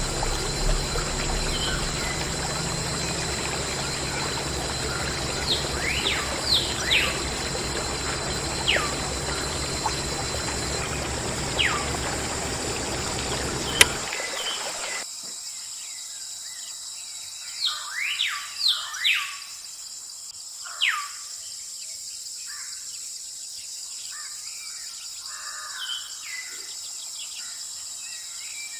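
Small birds chirping with short, quick, downward-sweeping calls. For about the first half a steady rushing noise runs beneath them, then stops abruptly, leaving the bird calls over a faint steady high hiss.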